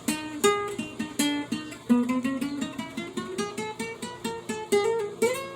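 A guitar played by picking single notes, a quick run of plucked notes, several a second, moving up and down in pitch with each note ringing on briefly.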